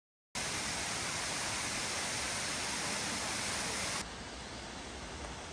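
Waterfall rushing as a steady, even roar of water. About four seconds in it cuts to a quieter, duller rush.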